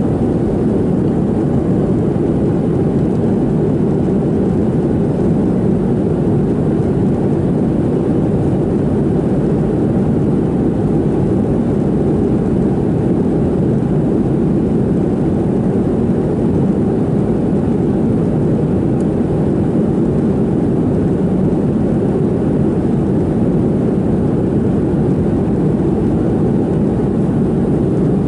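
Steady cabin noise inside a Boeing 737-700 in cruise: an even, low-pitched rush of airflow and CFM56-7B engine noise.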